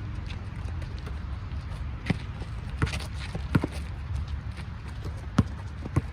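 Basketball bouncing on a hard court during play, a handful of sharp irregular bounces with players' footsteps, over a steady low rumble.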